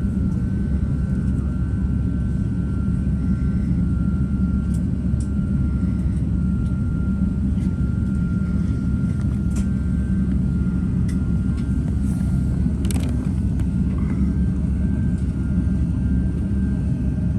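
Jet airliner engines running, a steady low rumble with a thin steady whine above it.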